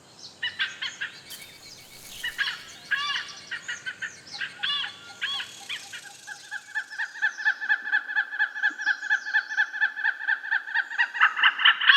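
Birds calling: scattered short chirps at first, then from about halfway a fast, even series of repeated call notes, roughly four a second, growing louder toward the end.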